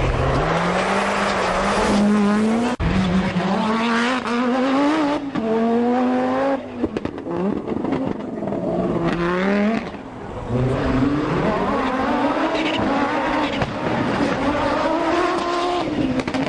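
Group B rally car engine at full throttle, its pitch climbing through each gear and dropping at each shift, with several upshifts in quick succession.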